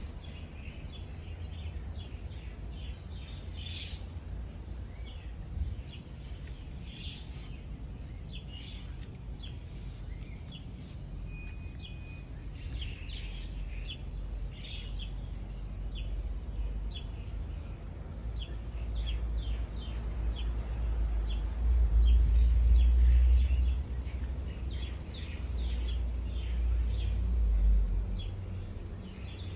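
Small birds chirping: many short, high calls repeating throughout. A low rumble swells under them about two thirds of the way in.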